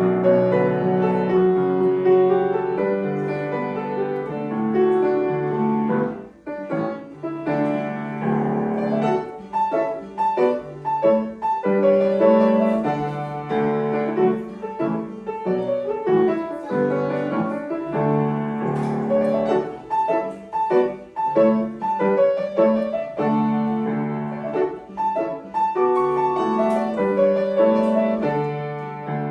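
Solo piano playing a light, lively piece, with quick repeated notes and short phrases; it briefly thins about six seconds in and begins to fade out right at the end.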